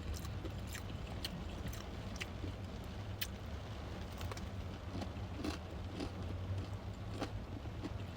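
Close-up chewing and biting while eating fried chicken and fries: soft, scattered smacking and crunchy clicks over a steady low hum.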